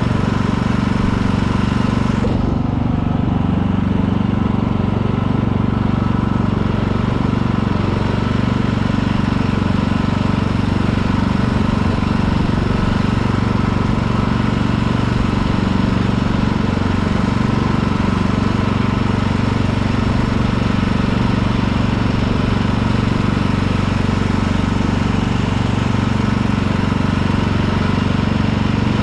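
Lawn tractor engine running steadily as the tractor is driven, with its blades not engaged; the hum stays even in pitch and level.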